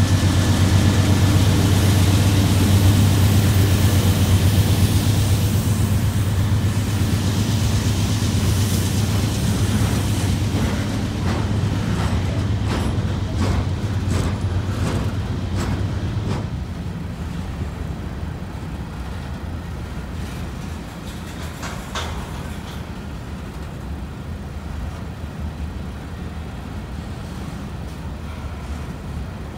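Norfolk Southern freight train passing at close range. The diesel engines of its GE Dash 9 locomotives drone loudly, then fade away over the first half. The freight cars roll by with a run of sharp clicks from the wheels, and the rolling quiets toward the end.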